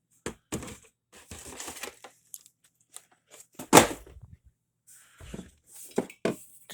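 Household items being moved about in a cupboard: a string of irregular knocks, clatters and rustles, with one sharp, loud knock a little past the middle.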